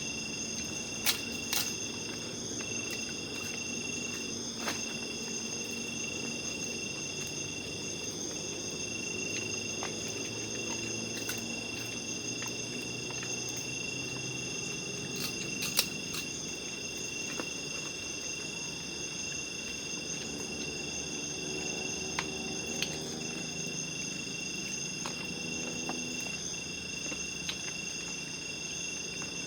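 Night chorus of crickets and other insects: several steady high trills overlaid, one cutting on and off every few seconds. A few sharp clicks or pops come through, the clearest about a second in and about sixteen seconds in.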